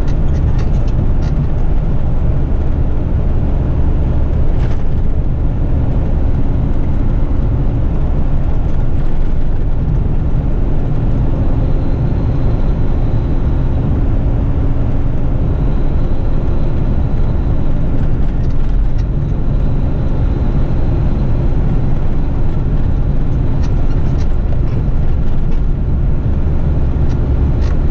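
Eight-wheel twin-steer front-lift garbage truck's engine running steadily.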